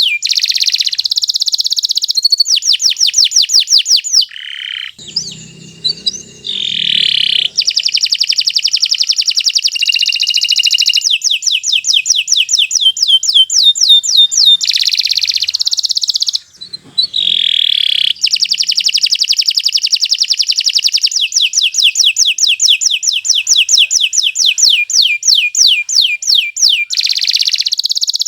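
Domestic canary singing a long, unbroken song of fast trills, one rapid rolling phrase after another, with two brief breaks about five and seventeen seconds in.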